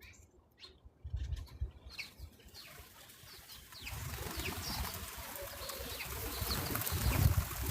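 Small birds chirping at a feeder, short high calls over a steady hiss that grows from about three seconds in. A few scratchy clicks and low thumps come early, and more thumps come near the end.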